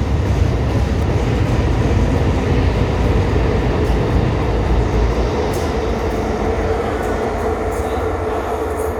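Tyne and Wear Metrocar train (a pair of units) pulling out of the station: a steady low rumble with a held motor hum, easing slightly near the end.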